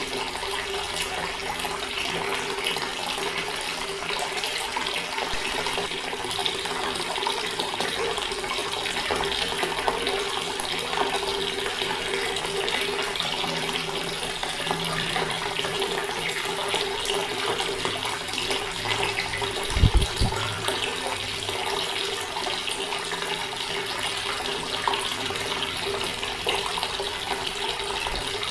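Water running steadily from a tap, with a faint steady hum under the splashing. About two-thirds of the way through there is one brief low thump.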